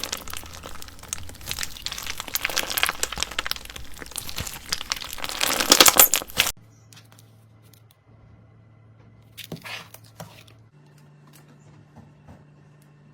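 Slime being squeezed and pressed with the hands, giving a dense crackling and crinkling that cuts off suddenly after about six seconds. Then a faint low hum, with one short squish near ten seconds.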